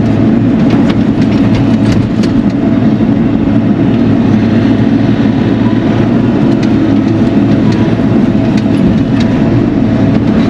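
An engine running steadily close by, a constant low hum with scattered light clicks and rattles.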